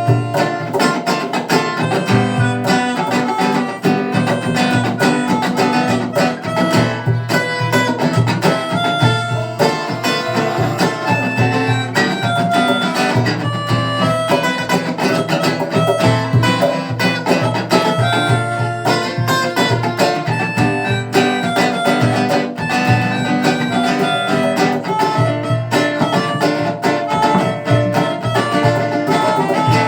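Live band playing an instrumental passage led by guitars, with a steady rhythmic beat and no vocals.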